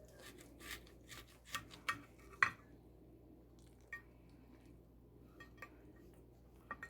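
Cutlery clinking and tapping against a dish: a quick run of sharp clinks in the first two and a half seconds, the loudest at the end of the run, then a few scattered taps.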